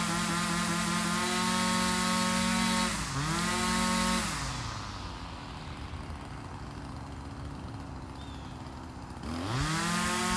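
Small two-stroke engine held at high revs, dipping briefly about three seconds in, then dropping to idle for about five seconds before revving back up near the end.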